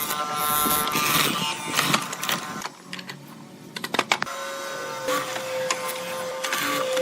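Workshop tool sounds: a series of short noisy strokes, a few sharp clicks about four seconds in, then a small electric power tool motor starts and runs with a steady whine.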